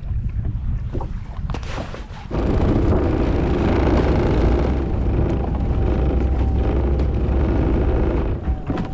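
Jet kayak's engine running under way, with wind and water noise; it gets louder about two seconds in and holds there, with a steady whine.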